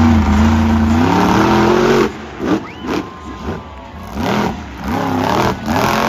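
A monster truck engine runs loud under heavy throttle, its pitch climbing over the first two seconds. At about two seconds it drops off suddenly, and a series of short revs rise and fall in pitch.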